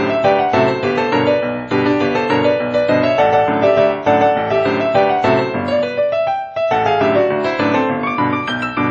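Background piano music, a quick run of bright notes with a brief pause about six and a half seconds in.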